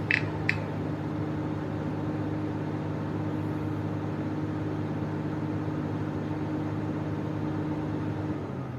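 Komatsu PC350LC excavator's diesel engine running at steady revs, with two short clicks about half a second apart near the start; near the end the engine note drops as the revs come down.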